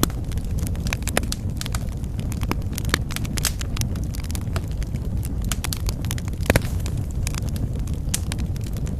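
Wood fire burning in a fireplace: a steady low rumble of the flames with frequent irregular crackles and pops, one louder pop about six and a half seconds in.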